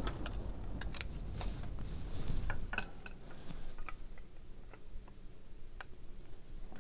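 Faint, scattered clicks and light taps of trading cards and plastic card holders being handled.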